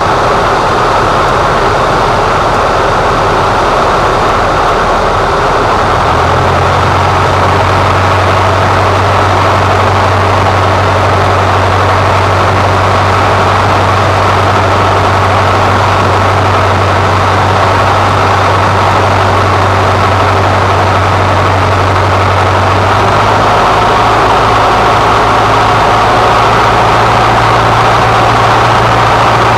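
Cessna 150's four-cylinder Continental O-200 engine and propeller droning steadily, heard loud inside the cockpit. The low hum shifts slightly in pitch about six seconds in and again after about twenty-three seconds.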